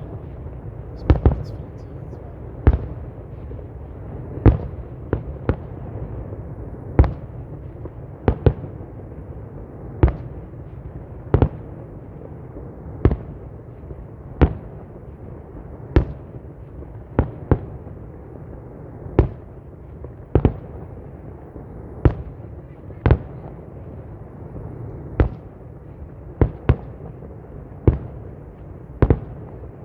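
Fireworks display: a long, steady run of sharp aerial shell bangs, about one every second or so and now and then two in quick succession, over a continuous low rumble.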